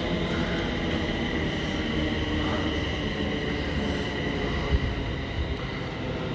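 Passenger train pulling into the platform: a steady rumble of wheels with a steady high whine over it, and one sharp knock about three-quarters of the way through.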